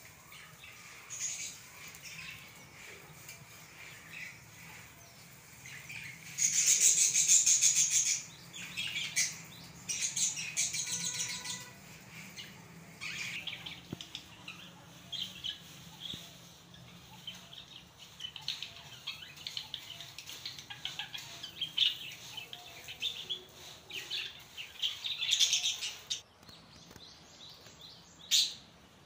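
Birds chirping in repeated bursts, loudest about seven seconds in and again near the end, over a faint steady low hum.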